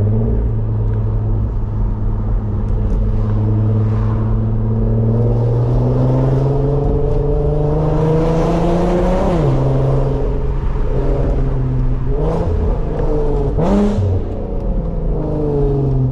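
Car engine under way, running steadily, then accelerating with its pitch climbing. It drops sharply at an upshift about nine seconds in, climbs again, and shifts once more around fourteen seconds.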